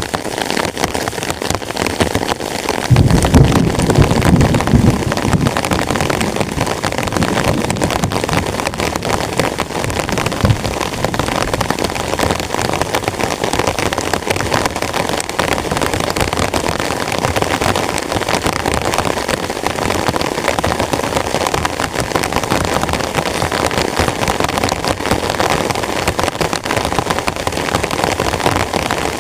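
Heavy rain pattering steadily on a tent, a dense, even hiss of drops. About three seconds in, a low rumble swells for a couple of seconds, and there is a single low thud around the ten-second mark.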